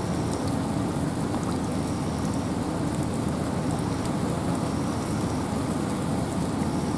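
Steady rain falling in a forest with wind: an even low rushing, with scattered drops ticking on top.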